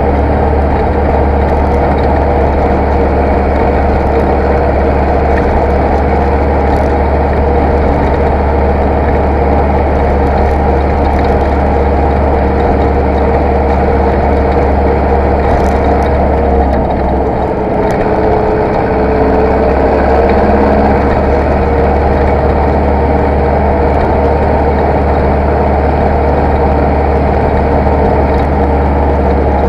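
Zetor tractor diesel engine running steadily under load. Its note dips briefly about two-thirds of the way through, then picks up again.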